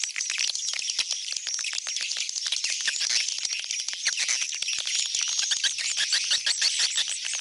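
A dense, unbroken chorus of swiftlets twittering, with rapid clicks mixed in among high chirps, the kind of lure call played to draw swiftlets into a swiftlet house.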